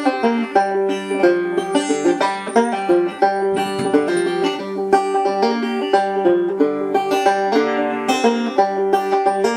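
Five-string banjo, converted from a tenor, with a thin goatskin head tensioned to 90 on a Drum Dial, played two-finger style: a continuous tune of quick plucked notes.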